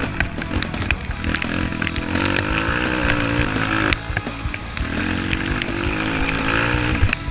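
Small motorbike engines with a buzzing, chainsaw-like sound, revving up and down in pitch in spells, with scattered sharp ticks.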